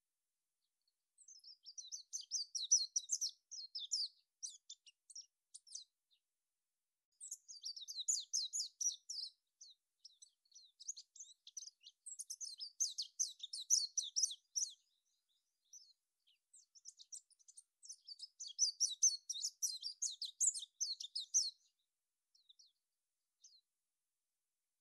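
A small songbird's rapid, high-pitched chirping and twittering, in several bouts a few seconds long with pauses between.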